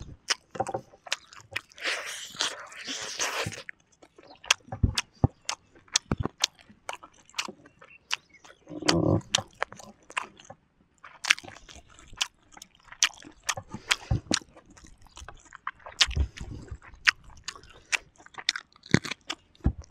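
Close-up eating sounds of grilled chicken with rice: biting and chewing, with many sharp wet mouth clicks and crunches scattered throughout.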